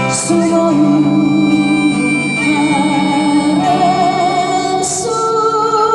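Folk trio singing a slow song in long held notes with vibrato, over acoustic guitar accompaniment.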